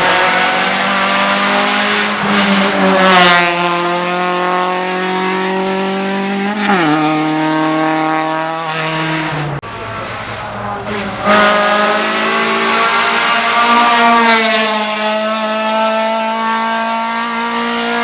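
Race car engine running hard at high revs, its pitch holding steady and then stepping sharply at gear changes several times.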